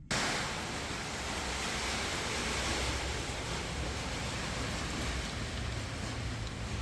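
Blizzard with wind-driven hail: a steady hissing rush of wind and hailstones that starts abruptly and holds without a break.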